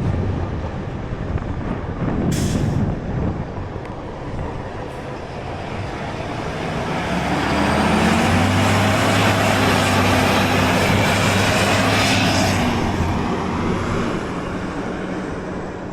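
Street traffic noise with a heavy road vehicle, a truck or bus, passing close by. Its engine hum builds for several seconds and then fades, and there is a short hiss early on.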